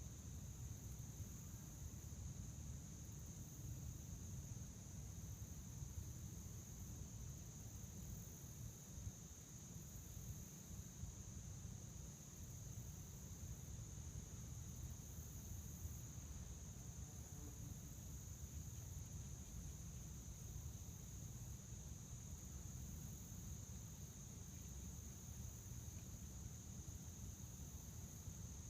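A chorus of crickets keeping up one continuous high trill, over a steady low rumble.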